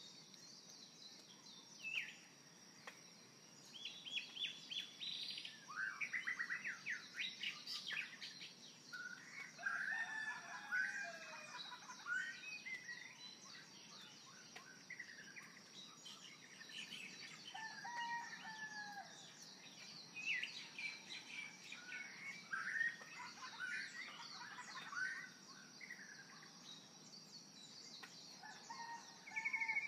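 Several birds chirping and singing: many short gliding whistled notes in bursts, over a steady high-pitched tone.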